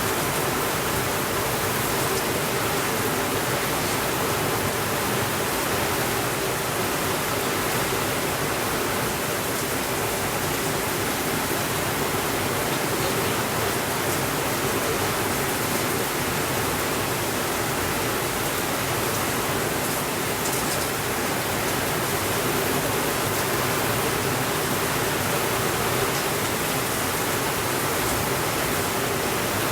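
Steady rainfall: an even, unbroken hiss that holds the same level throughout.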